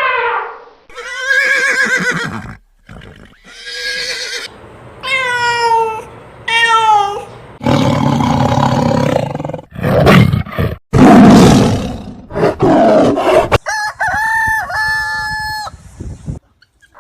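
A run of separate animal calls from different species, spliced one after another with abrupt cuts: short pitched calls that bend in pitch, then two long, rough roars in the middle, then a series of stepped, pitched cries near the end.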